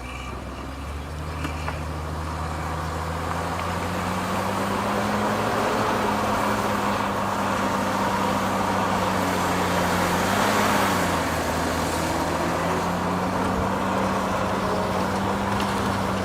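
Heavy diesel engine of an earthmoving machine running under load, growing louder over the first few seconds. Its engine speed rises and falls slightly now and then.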